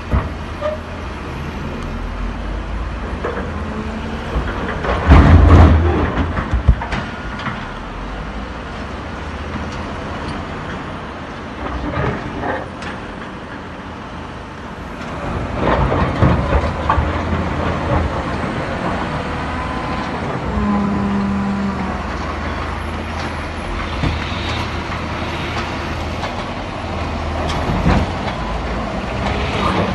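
Heavy diesel machinery running with a steady low rumble, broken by loud metallic clanks and knocks, the loudest about five seconds in.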